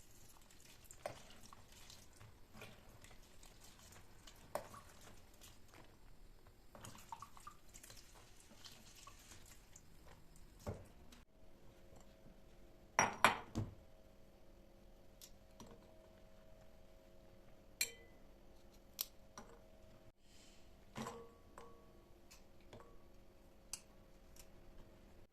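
Kitchen handling sounds: scattered clinks and knocks of dishes and utensils, the loudest cluster about halfway through. A low steady hum starts a little before that.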